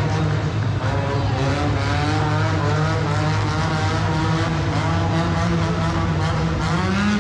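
Monster truck engine running loudly and steadily, its pitch wavering and then rising near the end as it revs up.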